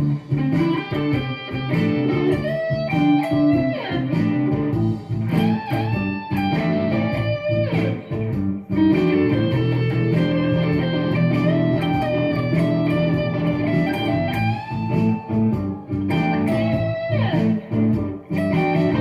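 Electric guitar, a Squier Affinity Starcaster played through a Marshall Code 50 amp and a Caline Crazy Cacti pedal, playing blues. Single-note lines with string bends run over sustained lower notes.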